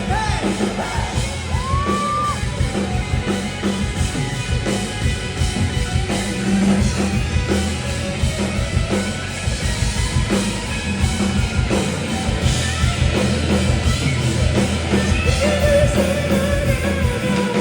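Live rock band playing loudly: drums, bass and electric guitars with a singer's voice, heard in a large hall.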